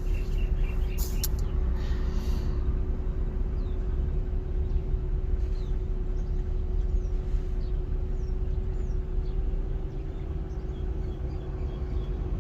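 Lexus GS450 running with the air conditioning switched on: a steady low rumble with an even hum. A quick string of short beeps and a few clicks come at the start. Birds chirp faintly throughout.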